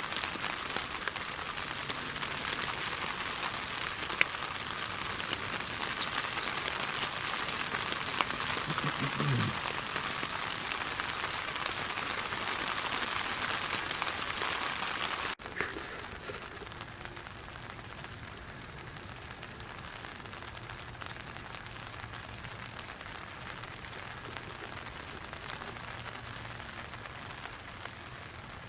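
Steady rain falling, with scattered single drops ticking sharply. About halfway through it drops abruptly to a quieter rain.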